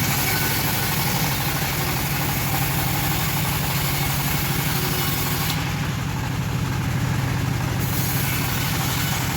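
Engine of a homemade bandsaw sawmill running steadily, with a fast even pulsing and low hum.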